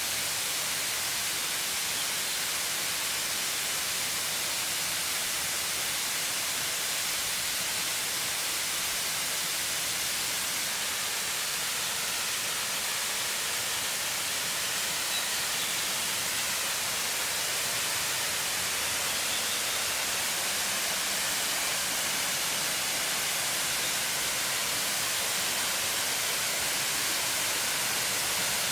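Waterfall: the steady rush of falling water, an even hiss that holds without change.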